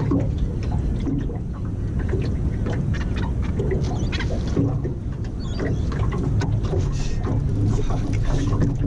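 Fishing line being reeled in, with repeated short clicks and rattles, over a steady low boat-motor hum; the catch is a hooked bird.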